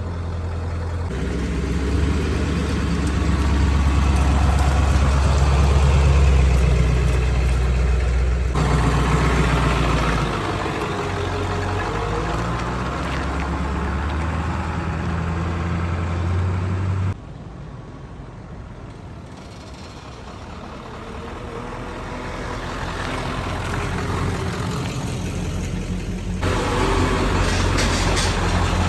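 Ford 7.3 L Powerstroke turbo-diesel V8 in a 1996 F-250 idling, just brought back to running after a no-start. Its level drops suddenly partway through and then slowly builds back.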